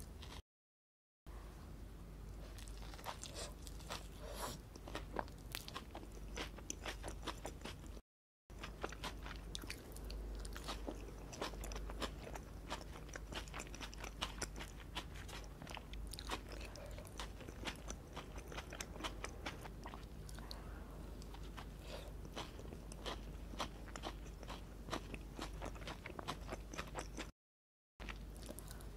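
Close-miked biting and chewing of a McDonald's honey mustard burger with shredded lettuce: a continuous run of small crisp crunches. It drops to dead silence three times, briefly.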